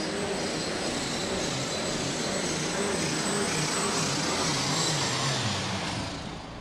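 Turbocharged diesel engine of a Case pro stock pulling tractor running at full throttle under load while pulling the sled, with a steady high whine over the engine. The engine note wavers, then drops and dies down about six seconds in as the pull ends.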